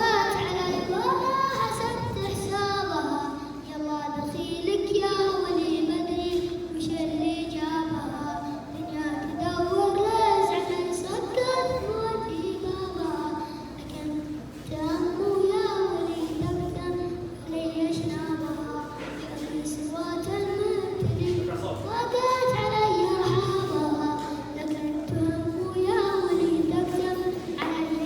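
A young schoolboy singing a melodic Arabic song solo, with long held notes that waver and bend in ornaments.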